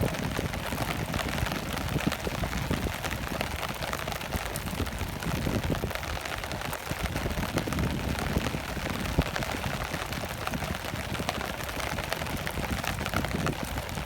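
Steady rain, many small drops pattering, over a low rumble.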